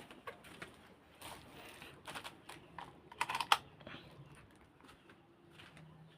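A run of irregular light clicks and taps, with the loudest cluster about three and a half seconds in.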